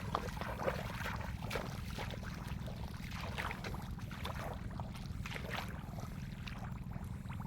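Irregular splashing and sloshing of shallow muddy water as hands search through a flooded rice field, over a steady low rumble.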